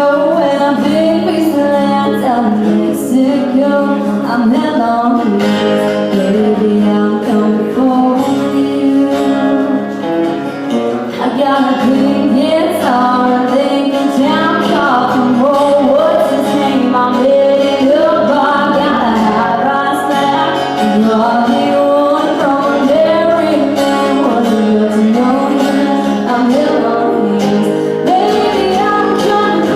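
A woman singing a country song, accompanied by a strummed acoustic guitar.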